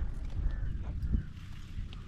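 The 97 cc single-cylinder engine of a Hero Splendor Plus Xtec motorcycle running on the move, heard as a low, uneven rumble that eases off in the second half.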